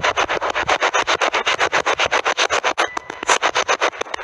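Spirit box radio scanner sweeping rapidly through stations, giving a steady chopping static at about ten bursts a second, with a short dip about three seconds in.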